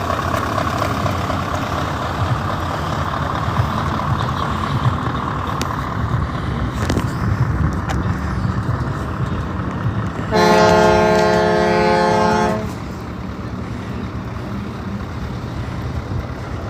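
A truck's air horn sounds one steady blast of about two seconds, about ten seconds in, over a continuous low rumble of vehicle engines.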